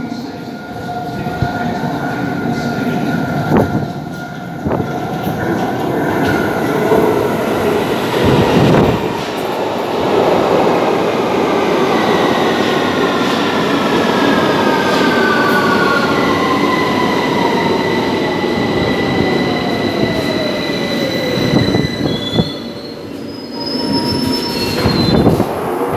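London Underground Victoria line 2009 Stock train running along the platform with rumble and wheel noise. Its motor whine falls in pitch from about twelve to twenty-one seconds in as it slows, with steady high squealing tones over it.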